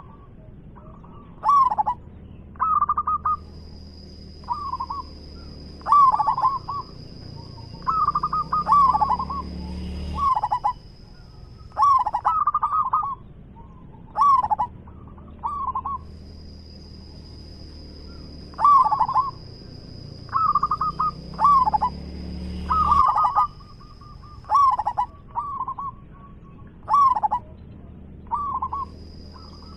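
Zebra dove (perkutut) singing: short, rolling, staccato coo phrases repeated every one to two seconds. A thin, steady high whine comes and goes behind the calls.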